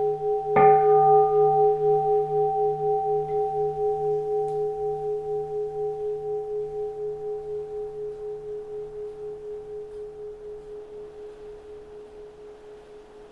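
A keisu, a bowl-shaped Zen temple bell, is struck once about half a second in, cutting into the fading ring of the previous stroke. It rings with several tones and a steady pulsing waver, dying away slowly.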